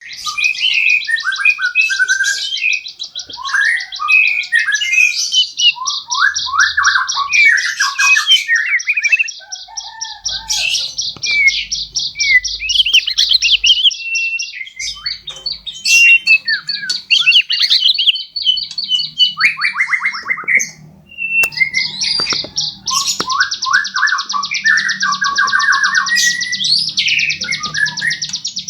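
Songbird chirping and singing: long, fast, high-pitched trills lasting several seconds at a time, broken by shorter chirps and whistled notes lower in pitch.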